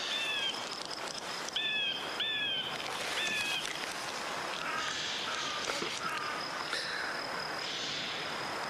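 Bird calls over a steady outdoor hiss: four short whistled notes, each with a downward hook, in the first few seconds, then four lower, softer calls. A faint steady high tone runs underneath.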